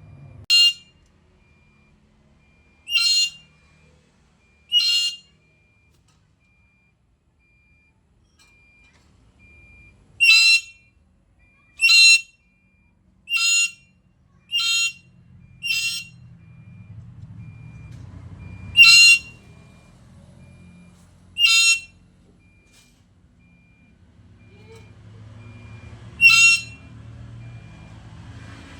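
Black-capped lory calling: short, loud, high-pitched single notes, about eleven in all at irregular intervals, with a pause of several seconds after the first three. A faint low hum runs underneath in the second half.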